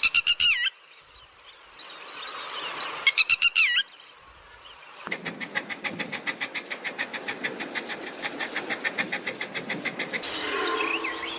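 Two short bird trills of rapid wavering notes, then an even ticking about seven times a second for about five seconds, then softer bird chirps near the end.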